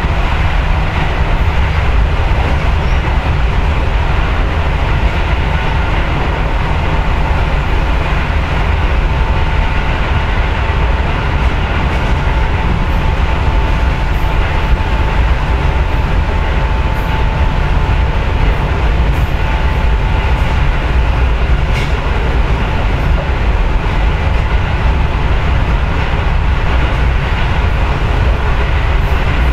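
Steady running noise inside a Yagan Railway 6050-series electric train car: a continuous low rumble of wheels on rail and running gear. A faint steady tone sits over it for about a dozen seconds in the middle, and a few faint ticks are heard.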